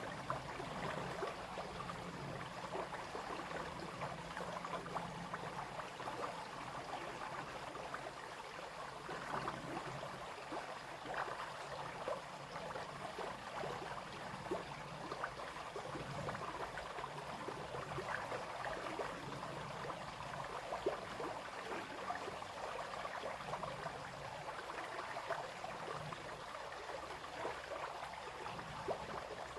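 Brook flowing and babbling steadily, with many small splashes and trickles over the running water.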